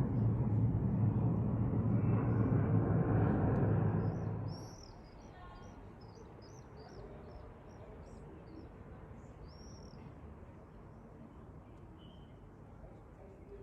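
Airbus A320 jet airliner's engine rumble, steady and low, dropping away abruptly about four and a half seconds in. Small birds then chirp in quick short calls against faint background noise.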